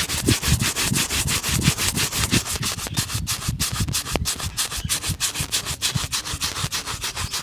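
Rapid back-and-forth shoe-shine strokes rubbing over a polished leather shoe, about five to six strokes a second, starting abruptly.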